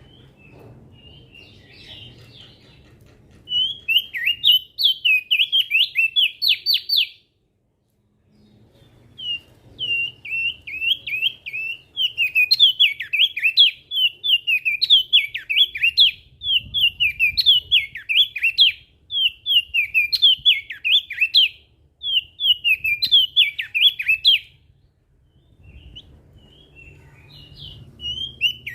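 Crested dark-eye (opior jambul) singing in long phrases of fast, high, chattering whistled notes, broken by a brief dead stop about seven seconds in and a short pause near the end. A faint low hum lies underneath.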